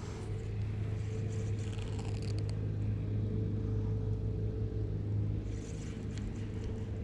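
Engine running steadily with an even low hum, with light clicking and rustling over it.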